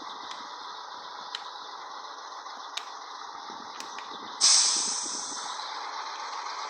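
Steady hiss with a few light clicks, then a sudden loud burst of air hiss about four and a half seconds in that fades over a second, typical of a heavy truck's air brake system venting.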